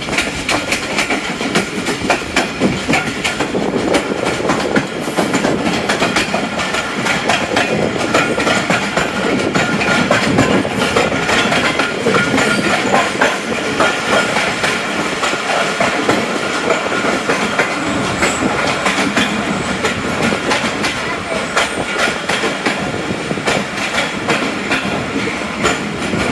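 Passenger train running at speed, its wheels clattering steadily over the rail joints with a continuous rumble of the coaches.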